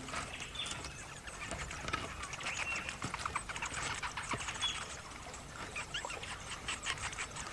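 Spectacled flying foxes scrambling through foliage: a busy scatter of clicks and rustles, with short high squeaks now and then.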